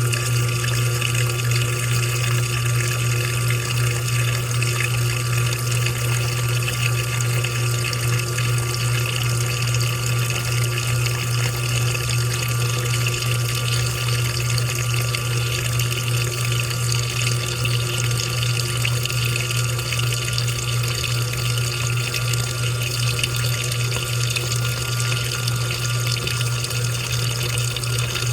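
Washing machine running with water: steady rushing water over a strong, steady low hum from its motor or pump.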